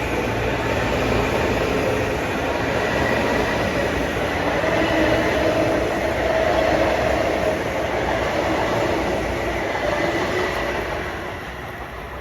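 LIRR M9 electric multiple-unit train running through the station: a steady rumble of wheels on rail with a faint whine over it, fading away near the end.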